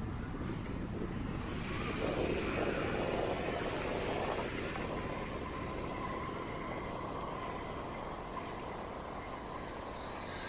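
Steady rushing noise of a bicycle ride in the rain: wind and tyre noise. It swells about two seconds in and eases again after about five seconds.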